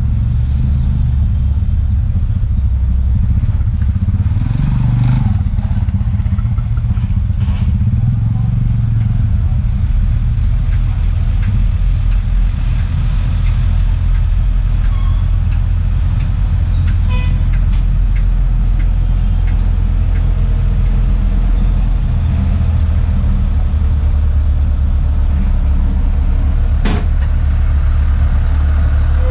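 A heavy engine running steadily at idle, a deep even rumble, with a few faint metallic clicks and knocks over it.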